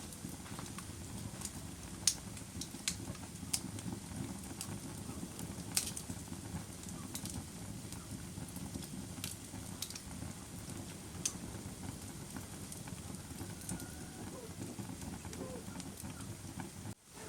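Wood fire burning, a steady low rush under irregular sharp crackles and pops, with louder snaps about two seconds in and near six seconds.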